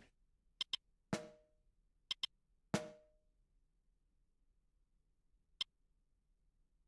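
Sparse percussion strokes: two quick pairs of sharp clicks and a single click, with two harder struck hits between them that each ring briefly on a mid-pitched tone.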